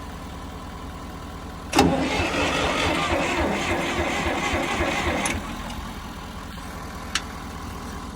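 The 1973 John Deere 300 tractor's engine is cranked over by its starter with the choke on, a loud churning with a regular beat that lasts about three and a half seconds and stops without the engine catching. A steady engine idle runs underneath, and a single sharp click comes near the end.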